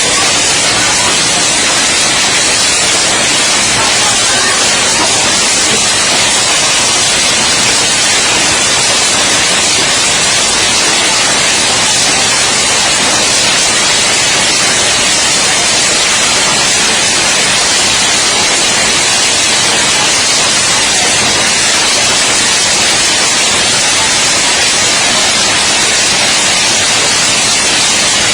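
Heavy hail and rain coming down in a steady, loud, unbroken rush.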